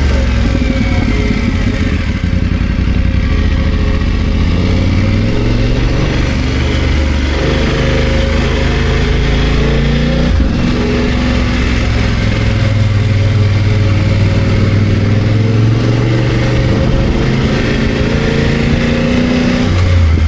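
BMW F 900 GS parallel-twin engine running while riding, its pitch rising and falling as the throttle and revs change, with a brief knock about ten seconds in.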